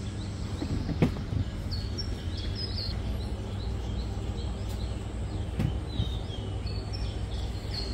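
Birds chirping in clusters of short, high, quickly repeated notes over a steady low rumble, with a single thump about a second in.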